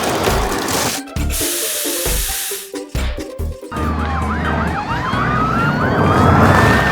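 Emergency vehicle siren sound effect starting a little past halfway: a fast warbling yelp together with a slower rising and falling wail, over background music with a bass line.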